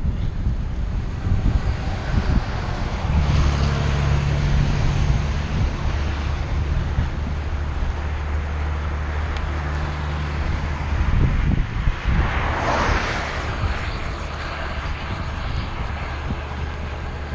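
Wind buffeting the microphone, with a motor engine's steady low hum from about three to eleven seconds in and a short rush of noise about twelve seconds in.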